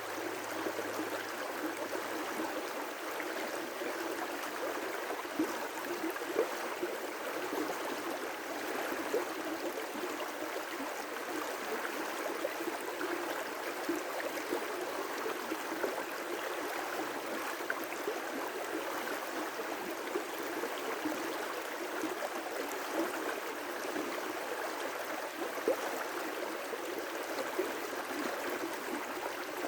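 River rapids: a steady rush of water with small splashes and gurgles scattered through it.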